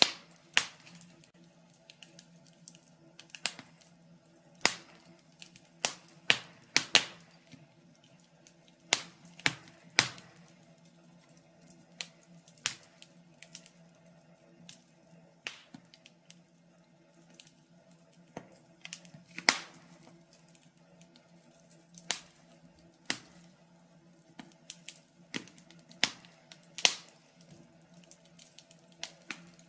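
Wood fire burning in a fireplace, crackling with irregular sharp pops, a few every couple of seconds, over a faint steady low hum.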